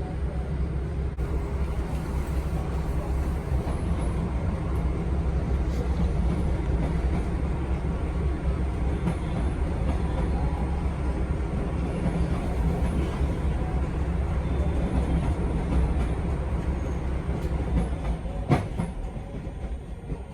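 Steady low rumble and hum inside a stopped MBTA Red Line subway car, from the train's own running equipment, with a single sharp knock near the end.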